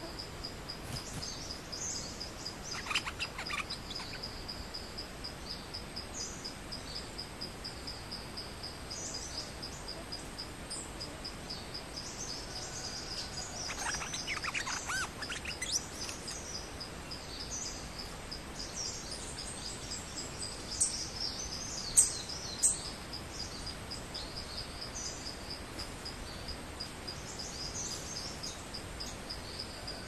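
Nok dok taeng birds, a caged decoy and a wild rival, giving short calls: a few notes about three seconds in, a longer run of notes around the middle, and sharp high chirps after it. A steady pulsing insect trill runs underneath.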